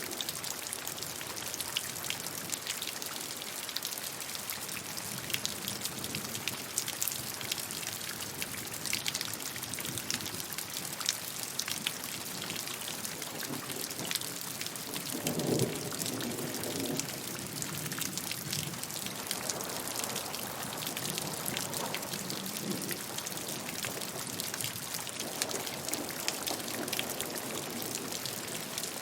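Steady rainfall: a constant hiss of rain with many individual drops pattering on a surface. About halfway through there is a short, deeper swell that is the loudest moment.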